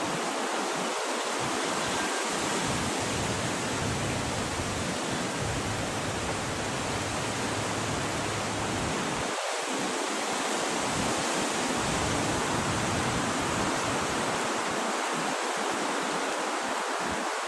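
Wind blowing steadily, an even rushing hiss, with low rumbling swells of stronger gusts in the middle stretch.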